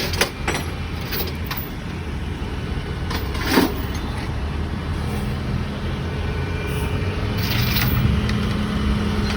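Heavy-vehicle engines idling with a steady low rumble; a steady hum joins about halfway through. One short sharp noise comes about three and a half seconds in.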